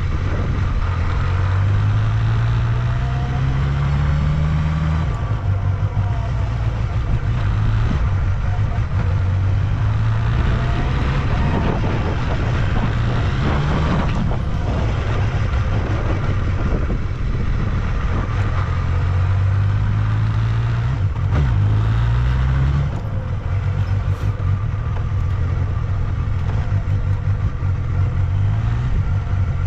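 Honda Jade 250's 249 cc four-cylinder engine running, revved up and eased back twice, in between at a steady idle. The seller describes it as running very well with no abnormal noise.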